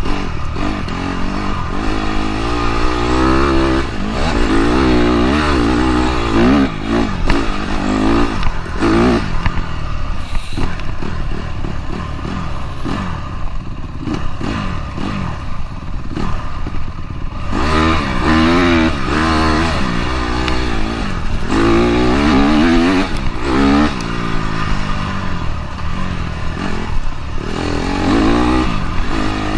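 Dirt bike engine revving hard, its pitch climbing and falling again and again as the rider works the throttle and gears, with an easier, lower stretch in the middle.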